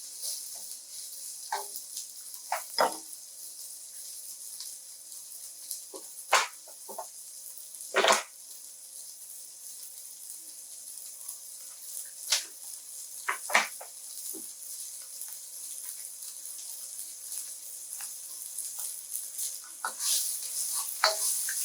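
Red pepper sizzling in a little oil in a frying pan, a steady high hiss. A utensil knocks and scrapes against the pan now and then, loudest about six, eight and thirteen seconds in.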